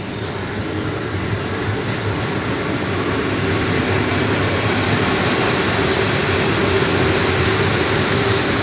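Vande Bharat Express electric train running on the rails, a steady rumble that grows louder over the first few seconds and then holds.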